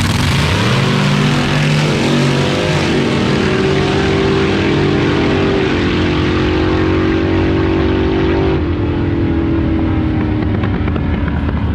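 Front-engine dragster making a drag pass: the engine note climbs sharply off the line, dips at a gear change about three seconds in, then holds a high steady note down the track. After about eight and a half seconds it gets quieter and the pitch sags as the car slows.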